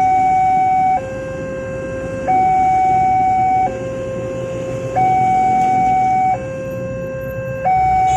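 Railway level crossing warning alarm sounding a steady high-low two-tone signal, each tone held for about a second and a third before switching, warning that a train is approaching.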